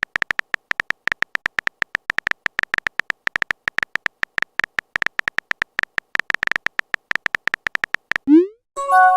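Texting-app typing sound effect: rapid, irregular short clicks at one steady pitch, several a second, for about eight seconds. Then a quick rising swoop and a message notification chime near the end.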